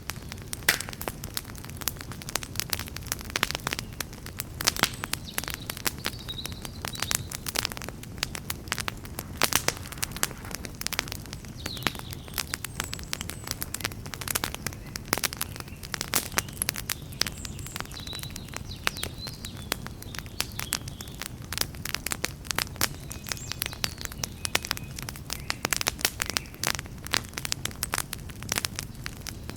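Wood campfire crackling and popping, many sharp irregular snaps over a steady low rumble of the flames.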